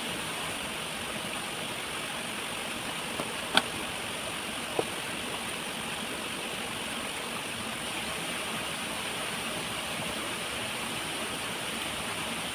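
Steady rush of a waterfall, with a few short sharp clicks between about three and five seconds in.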